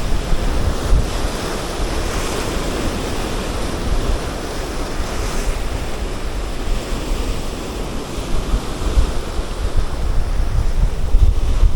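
Strong wind buffeting the microphone in gusts, with sea surf washing behind it.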